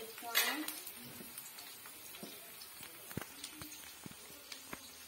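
Onions frying in oil in an aluminium kadai with a steady sizzle. There is a short louder burst about half a second in, and a few light clicks and scrapes of a spoon against the pan as turmeric powder goes in.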